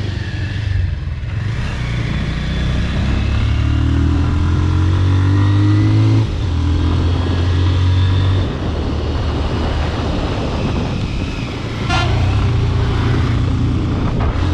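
Bajaj Pulsar RS200's single-cylinder engine running through a modified exhaust on the move, revving up through the gears: the note climbs, drops sharply at a gear change about six seconds in and again a couple of seconds later, then builds again near the end.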